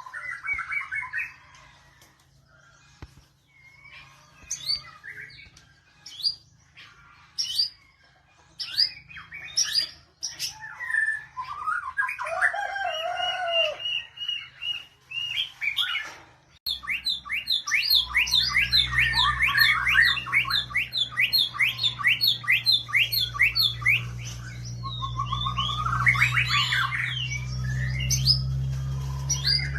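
White-rumped shama singing: varied whistles and chirps with short pauses, then, about halfway through, a fast unbroken run of rising chirped notes over a low steady hum.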